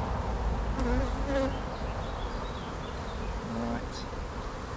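Honeybees from an opened hive buzzing close to the microphone over a steady low rumble. Individual bees pass near with a brief wavering buzz about a second in and again past the three-second mark.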